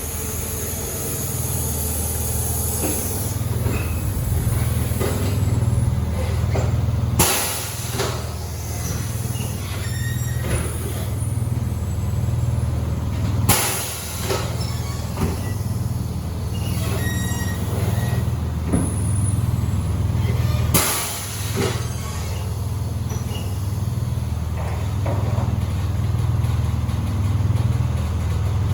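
Pneumatic tire-shop equipment at work: a steady low machine hum throughout, broken three times by short, sharp blasts of compressed air about seven seconds apart, as a tire's bead is being broken off the rim.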